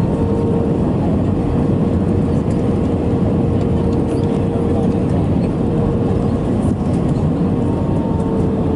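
Cabin noise inside an Airbus A320-214 heard from a window seat: a steady rumble of the CFM56 engines and airflow with a steady whine on top, which dips slightly in pitch near the end.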